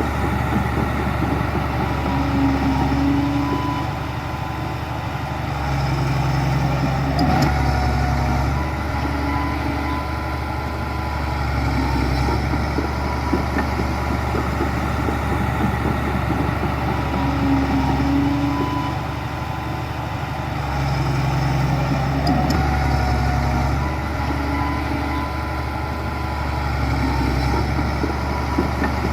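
Heavy diesel engine of earthmoving machinery running steadily, its loudness swelling and easing off every few seconds as it works.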